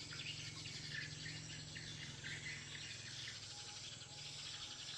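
A string of short, high sparrow chirps from a lure call for Eurasian tree sparrows, thinning out after about three seconds, over a steady low hum.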